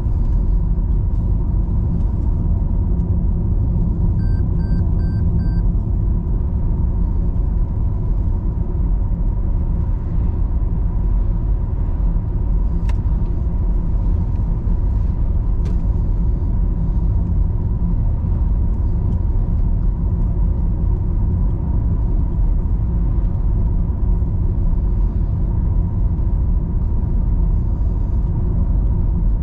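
A car driving on city roads, with a steady rumble of road and engine noise. A short run of high beeps comes about four seconds in, and there are two sharp clicks later on.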